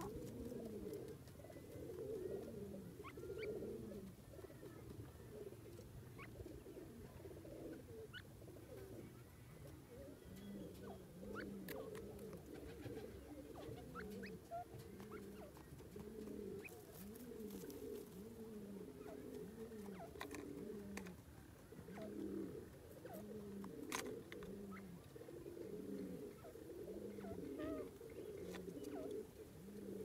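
A bird cooing softly: low, round notes repeated about once a second, with scattered light ticks.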